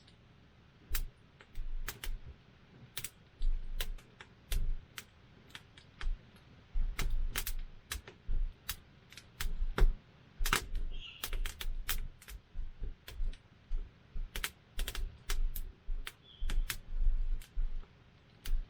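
Wood campfire crackling, with irregular sharp pops and snaps several times a second, some louder than others.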